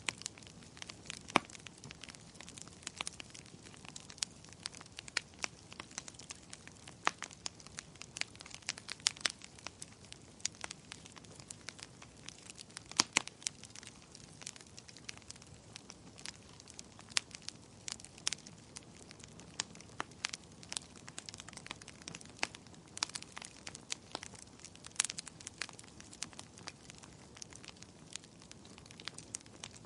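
Wood fire crackling and popping in a fireplace: irregular sharp pops, several a second, over a soft steady hiss.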